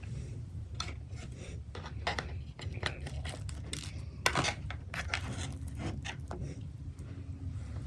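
Close-miked chewing of pepperoni pizza: a run of short crunchy, smacking mouth sounds, the loudest about four seconds in, over a steady low hum.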